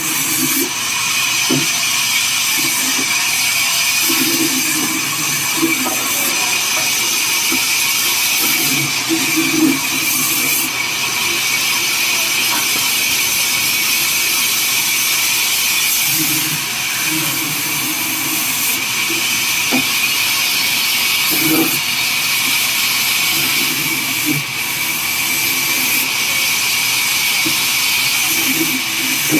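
Sawmill band saw running steadily through wood, a continuous hiss with a steady high whine, with muffled voices in the background.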